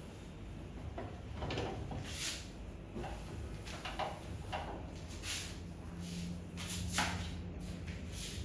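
Several short knocks and scrapes of household items being handled, the sharpest about seven seconds in, over a low steady hum.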